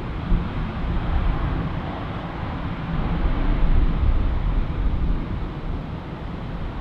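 Jet airliner engines heard at a distance, a steady rushing roar that swells a little midway, with wind buffeting the microphone.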